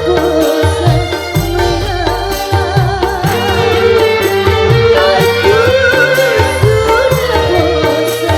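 Live dangdut band playing an instrumental passage without vocals: a wavering, ornamented melody over a steady bass line and hand-drum beats.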